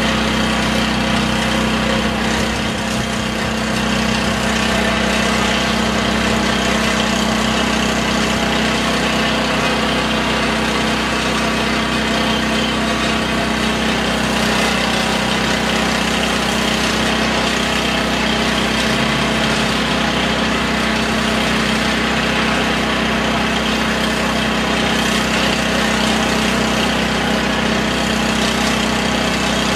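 A motor running steadily with an unchanging hum and a constant noise over it.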